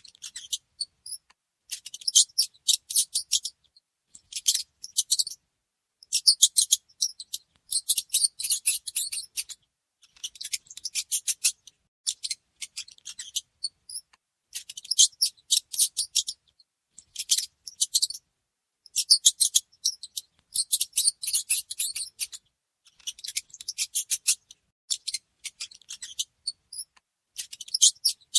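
Mice scratching and gnawing: rapid, dry, high clicking in bursts of about a second with short pauses between, and a few faint high squeaks.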